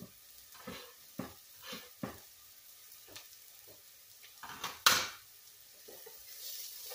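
Onions and minced garlic frying faintly in oil in a soup pot, with scattered light clicks and knocks of kitchen utensils and a sharp clack about five seconds in. Near the end a spatula stirs the pot and the sizzling grows steadier.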